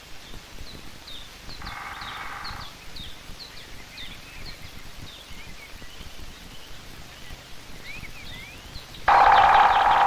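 A woodpecker, likely the black woodpecker, drumming on a resonant dry branch: a roll of about a second, then a longer, much louder roll starting near the end. Small songbirds chirp high and faintly throughout.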